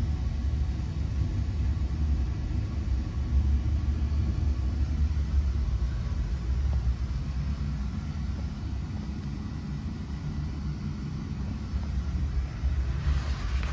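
2012 Frigidaire 5,000 BTU window air conditioner running, a steady low hum from its compressor and fan. A brief hiss comes in near the end.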